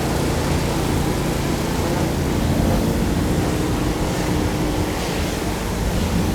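Two EMD diesel locomotives running light past the crossing: a loud, steady engine rumble mixed with a rushing, wind-like noise.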